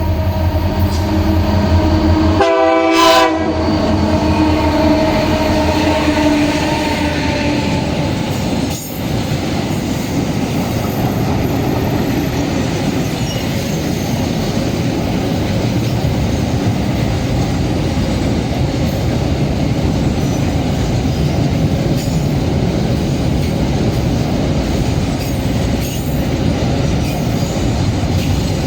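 Diesel locomotives of a freight train passing close by, with a short horn blast about three seconds in. The engine sound dies away, then a long string of freight wagons rolls past with a steady rumble and clatter of wheels on rail.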